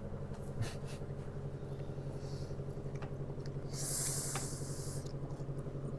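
Steady low hum of an electric fan running. There are a few faint clicks, and a short high hiss about four seconds in.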